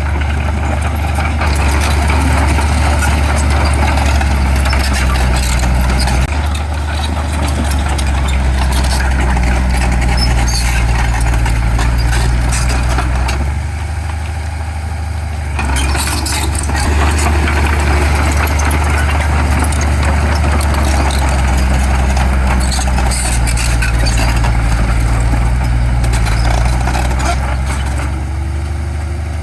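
Heavy diesel construction machinery engine running and working steadily, easing off for a couple of seconds about halfway through before building up again, with some light clattering.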